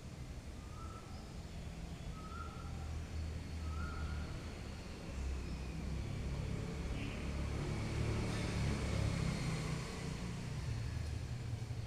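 A low rumble that grows louder toward a peak about nine seconds in, with three short high chirps in the first four seconds and a faint falling whine.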